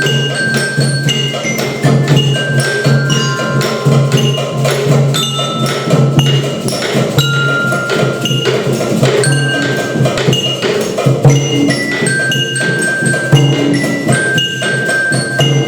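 Children's percussion ensemble playing a busy, steady rhythm on struck instruments: knocks mixed with short, ringing bell-like pitched notes, over a steady low drone.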